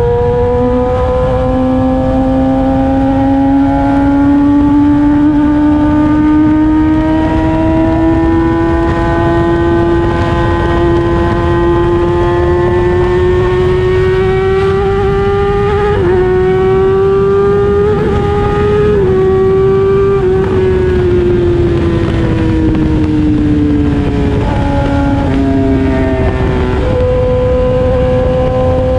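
Kawasaki ZX-10RR's inline-four engine running on its stock exhaust while the bike is ridden. Its note climbs slowly and steadily, with a few brief breaks past the middle, then falls away and picks up again near the end, over a steady rumble of wind and road noise.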